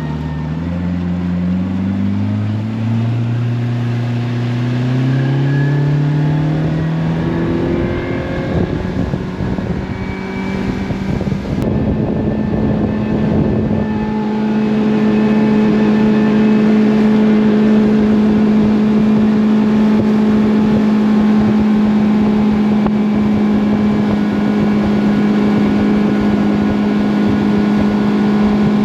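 Boat's outboard motor accelerating, its pitch rising for about eight seconds, then running at steady high revs under way, with water and wind noise.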